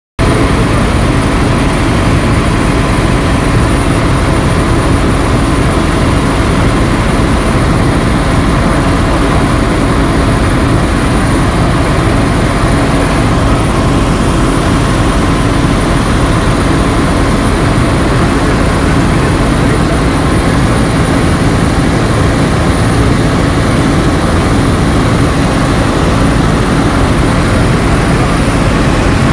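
Bell 412 helicopter in flight: the steady, loud drone of its rotor and twin turboshaft engines, with a thin, high turbine whine held constant over it.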